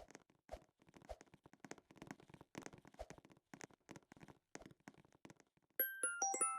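Faint, irregular clicks and taps, a few with a soft low thump. Near the end comes a quick run of bright chime notes that ring on.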